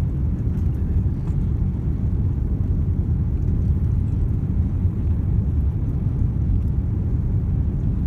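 Steady low rumble of an airliner's cabin noise: engine and airflow drone heard from inside the cabin.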